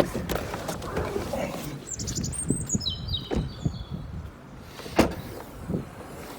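A small bird sings a quick run of high notes stepping down in pitch, about two seconds in. A sharp click comes at the start and a knock about five seconds in.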